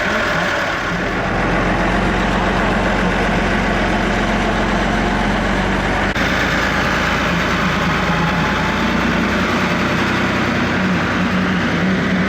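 Eicher tractor's diesel engine running steadily.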